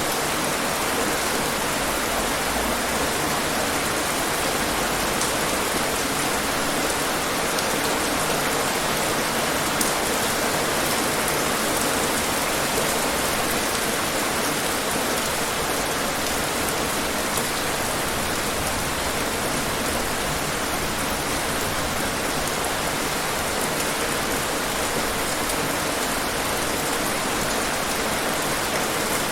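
Steady, heavy rain falling on hard surfaces, an even hiss with scattered faint drop ticks.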